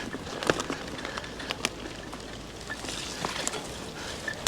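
Mountain bike tyres rolling slowly down a slippery dirt trail, crackling over soil and debris, with scattered sharp clicks and knocks from the bike.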